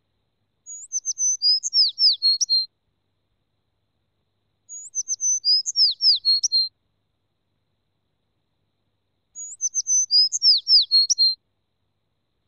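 Bird song: the same short phrase of quick high chirps and falling notes, heard three times, each about two seconds long with silence between.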